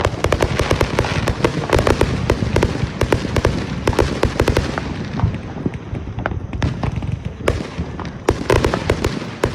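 Fireworks going off in a rapid barrage of bangs and crackles, thinning out about halfway through and picking up again near the end.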